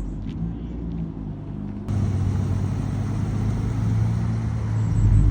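Car engines rumbling at low revs with a steady deep drone; the sound jumps louder about two seconds in and swells further near the end.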